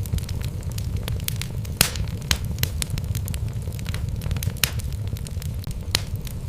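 Wood logs burning in a fireplace: a steady low rumble of the flames with irregular sharp crackles and pops, the loudest pops about two seconds in and near the end.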